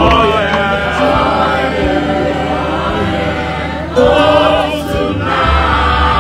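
A band's singers singing a praise song together in chorus, gospel-style. The bass and drums drop out at the start and come back in about five and a half seconds in.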